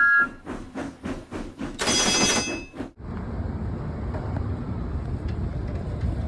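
Washington Metro train: a brief high tone at the start, then clattering and a short burst of hiss, then from about halfway a steady low rumble of the train running.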